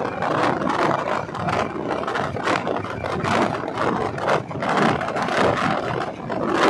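Indian Railways express coach running along the track, heard at an open window: steady wind noise with the wheels rumbling and clattering irregularly on the rails.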